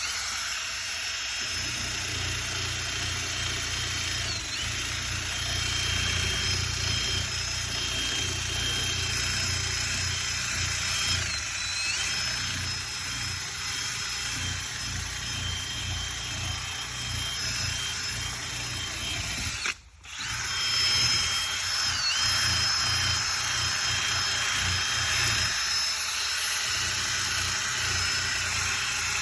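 Hand drill with a sanding attachment running, sanding old paint off a car hood. Its whine dips briefly in pitch a few times, and it stops for a moment about twenty seconds in before starting again.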